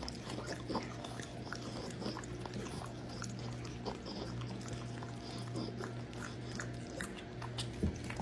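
French bulldog chewing and smacking on a piece of banana: many small, irregular wet clicks and mouth noises.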